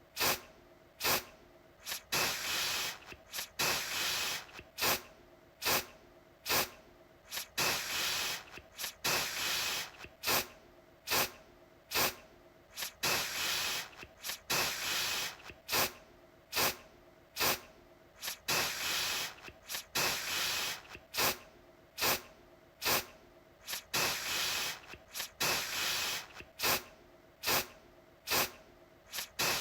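Aerosol deodorant can sprayed in short hissing bursts, about one a second, each starting sharply and fading out within a second.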